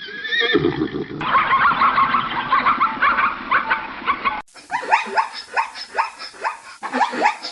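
Animal calls in a quick succession of edited clips, with abrupt changes about one second in and about four seconds in. The last part is a run of short, evenly repeated calls.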